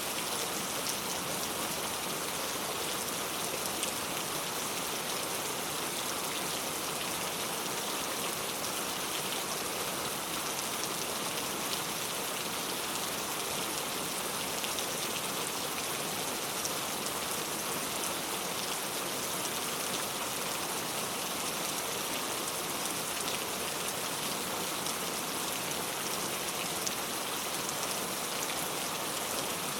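Heavy rain falling steadily, a dense even hiss of drops pattering on surfaces, with no thunder.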